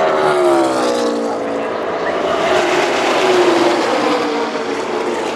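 NASCAR Xfinity Series stock cars' V8 engines passing at racing speed, the engine pitch dropping as the cars go by, twice.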